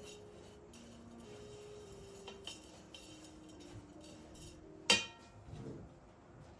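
A sharp clink of kitchenware being set down about five seconds in, after a couple of lighter taps, over soft background music of slow single notes.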